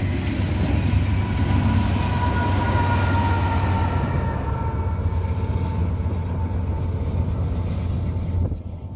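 Double-stack container freight train passing close by: a steady rumble of wheels on rail, with faint high ringing tones from the wheels that drift slowly lower. The sound drops suddenly near the end.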